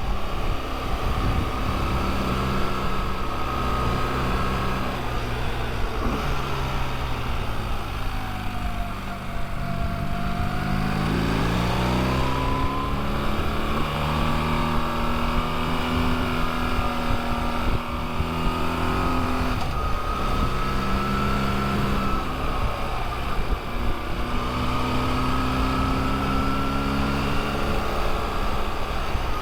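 Motorcycle engine running on the road over a steady rush of wind, its note holding steady, sagging, then climbing again as it accelerates, with shifts between long even stretches.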